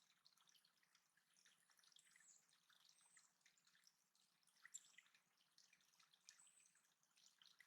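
Faint water dripping and trickling in a small backyard water feature, many small drops falling irregularly. A few very high, thin bird notes are heard over it.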